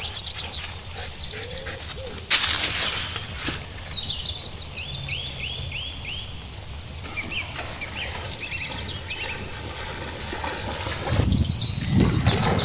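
Songbirds calling with many short chirps, including a quick series of falling notes midway. A brief loud rush of noise comes about two seconds in, and a heavier rumble of noise near the end.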